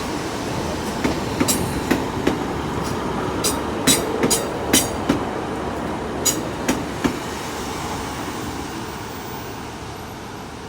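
Two coupled Class 150 Sprinter diesel multiple units moving past, wheels clicking over rail joints and points in an irregular run of sharp clicks. The running noise fades over the last few seconds as the train pulls away.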